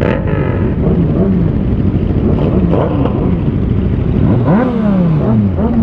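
Motorcycle engines revving up and down several times, their pitch rising and falling repeatedly, with a long rev-and-fall near the end, over a steady engine drone.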